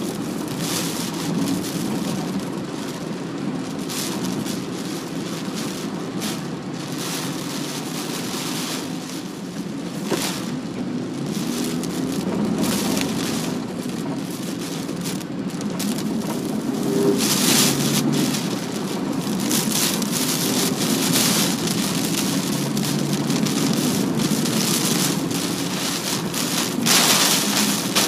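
Typhoon rain and wind pelting a moving car, heard from inside the cabin over steady road and engine noise, coming in uneven surges that grow louder about two-thirds of the way through.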